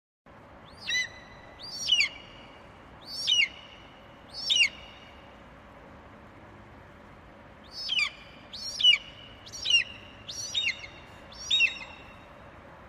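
Peacock calling: a series of four loud, shrill, downward-sliding calls about a second apart, a pause of about three seconds, then five more.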